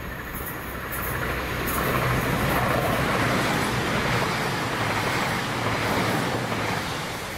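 CrossCountry Voyager diesel multiple unit passing through the station at speed: a rushing of wheels and air over a steady diesel engine hum, building about a second in, loudest in the middle as the cars go by, and easing near the end.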